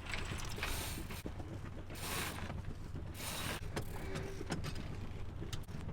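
A sailboat's inboard engine idling with a steady low hum, just after starting. Three short rasping noises come over it, about a second apart, plus a few light clicks.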